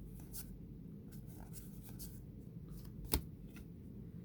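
2021 Topps Heritage baseball cards being handled and slid against one another, a few soft brushes and flicks, with one sharp tap about three seconds in.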